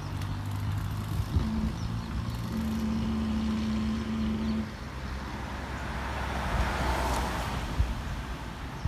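Motor vehicle engine running steadily, with traffic noise swelling as a vehicle passes about seven seconds in.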